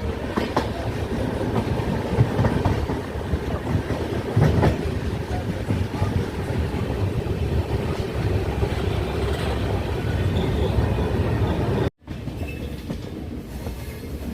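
Vaigai Superfast Express train running on the rails: a steady low rumble with scattered clicks of wheels over the track. The sound drops out for an instant about twelve seconds in and comes back a little quieter.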